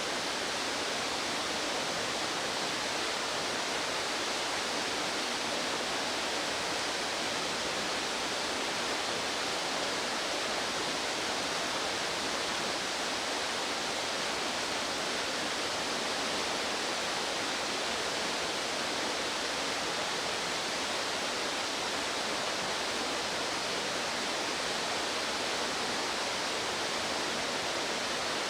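Fast-flowing stream rushing steadily, an even unbroken sound of running water.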